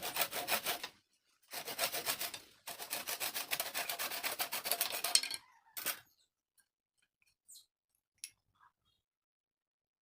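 Wood being rasped by hand with rapid back-and-forth strokes, in three bouts with short pauses and a brief fourth one about six seconds in, then a few faint ticks.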